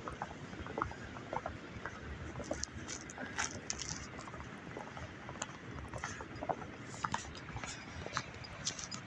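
Footsteps crunching in snow, a run of irregular crackling steps over a steady background hiss.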